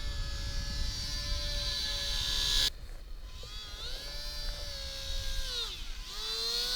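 Coreless electric motors of a WLtoys F949 RC Cessna whining, the pitch steady at first, then breaking off abruptly about two and a half seconds in. The whine returns and rises and falls with the throttle, dipping once near the end before climbing again.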